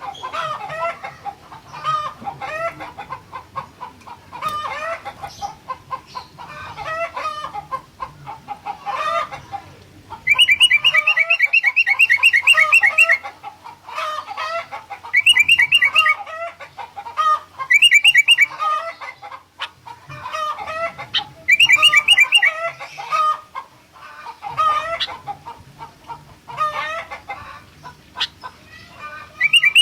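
Bulbul (kutilang) song: a steady run of short whistled phrases. From about ten seconds in, loud, fast, high trills a few seconds long recur between the phrases.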